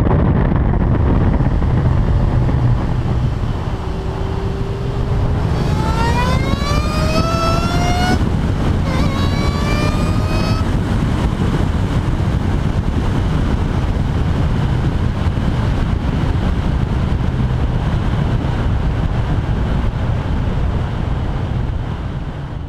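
2003 SVT Cobra's supercharged 4.6-litre V8 pulling through a Flowmaster exhaust with a steady low rumble. About six seconds in, the supercharger whine climbs in pitch for two seconds, breaks off, and climbs again briefly, as the car accelerates. It then settles back to steady exhaust rumble.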